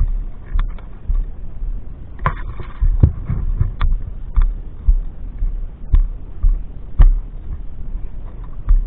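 Irregular deep thuds with sharp clicks and knocks every second or so: the handling noise of a rifle-mounted camera being jostled as the airsoft player moves.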